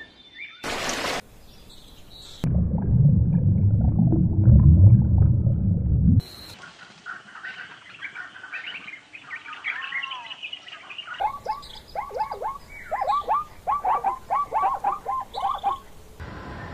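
Wild birds calling: assorted chirps, then a quick run of repeated falling notes about three a second. Before them, near the start, a brief noisy burst and then a low rumble lasting a few seconds, the loudest sound here.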